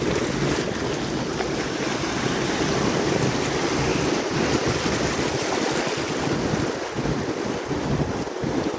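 Ocean surf washing on the beach, with wind buffeting the phone's microphone in a steady, fluttering low rumble.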